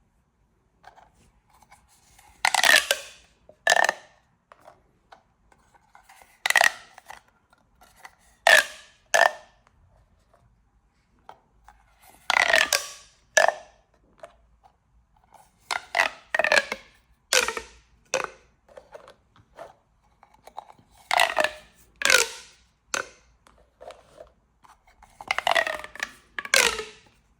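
Plastic pop tubes being stretched and squashed, each pull giving a short burst of rapid crackling pops with a hollow ring from the tube. There are about fifteen bursts in irregular clusters, often two close together, with brief pauses between.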